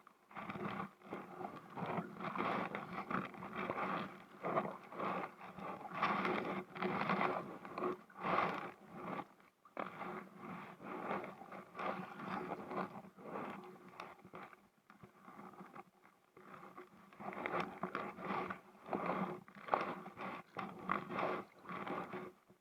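Kayak paddle strokes in river water: irregular splashing and dripping that swells and fades every second or two, with short lulls.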